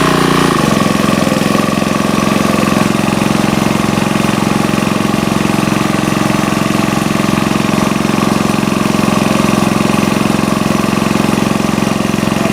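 Sportsman GEN2000 generator's small engine running steadily, its pitch shifting about half a second in and then holding even.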